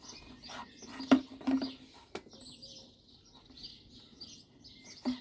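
Small birds chirping in the background, with scattered clicks and knocks from parts being handled; the sharpest knock comes about a second in.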